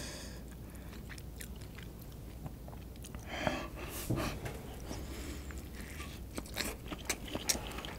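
Close-miked biting into and chewing a mouthful of cup-noodle fried rice, starting about halfway through. Wet smacking mixes with sharp crunchy clicks that come thicker near the end.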